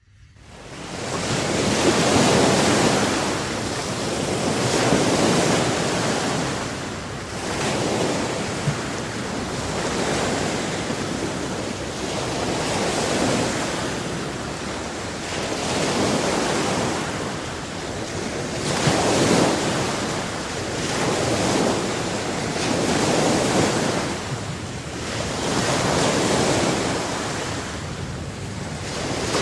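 Sea waves washing in, the surf swelling and falling back about every three seconds, with wind buffeting the microphone.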